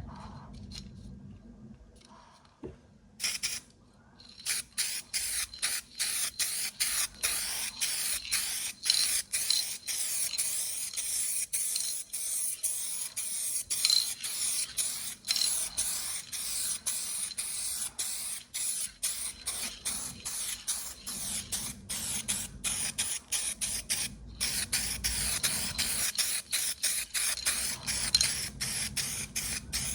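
UV primer being sprayed on as the last coat: a hiss that starts about three seconds in and comes in quick repeated passes broken by many short gaps.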